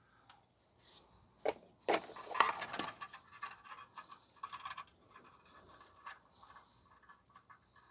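Metal clicks and scraping as a hose clamp is worked around a loose exhaust heat shield and tightened down, with the densest scraping and rattling about two to three seconds in and scattered small clicks after.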